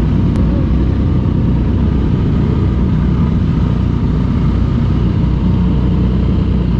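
Motorcycle engine running steadily, a dense low rumble with no change in pace.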